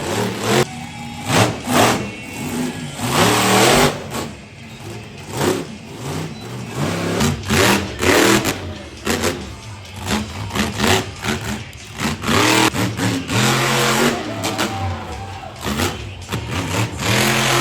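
Monster truck engine revving hard again and again, the pitch climbing and dropping in quick throttle blips with loud surges of exhaust noise in between.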